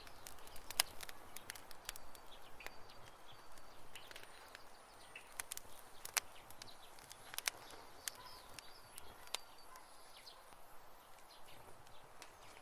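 Wood campfire crackling, with irregular sharp pops and snaps over a soft hiss; the loudest pops come about a second in and again around six and seven seconds. Faint high chirps sound now and then in the background.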